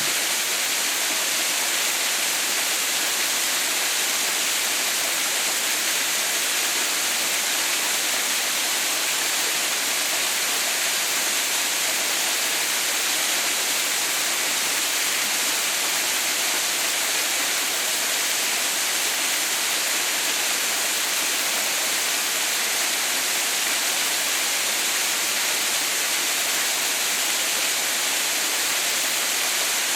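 Waterfall: the steady, unbroken rush of water falling and splashing, without any change.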